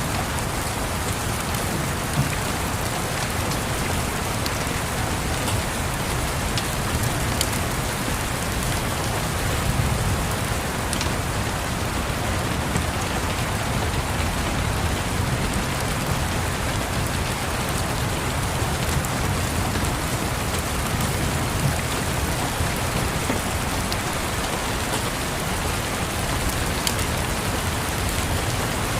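Steady heavy rain falling, with a low steady rumble underneath and a few faint sharp clicks scattered through it.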